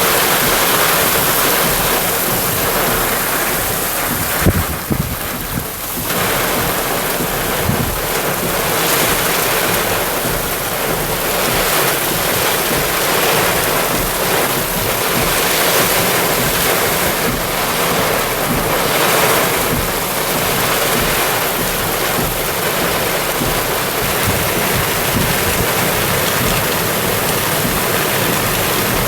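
Loud, steady rush of flowing rainwater runoff, an even hiss with a short dip about five seconds in.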